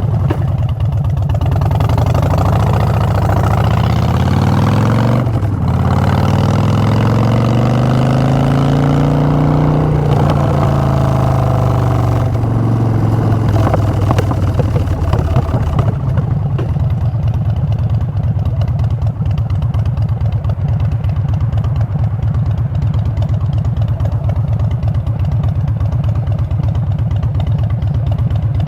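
Harley-Davidson Street Bob's air-cooled V-twin running through short Vance & Hines Short Shots exhaust pipes while riding. The engine note climbs through the gears with brief dips at the shifts, about five, ten and twelve seconds in, then settles to a steady cruise.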